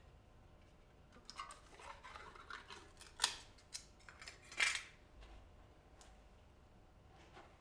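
Scissors cutting paper: a run of short snips and rasps, with two sharper, louder snips about three and four and a half seconds in.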